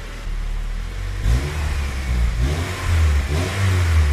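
Honda Civic Type R's turbocharged K20 four-cylinder engine blipped about three times over its idle, through the freshly refitted stock exhaust. The result is reckoned "so much better".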